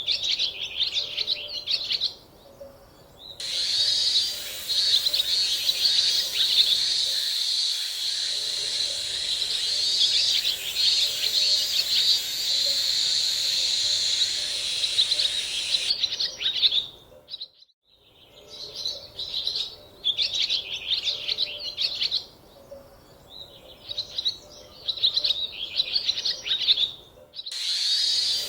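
Small birds chirping in quick bursts of high calls. For about twelve seconds, starting a few seconds in, a dense, unbroken high chorus fills in under the chirps. The sound changes abruptly a few times.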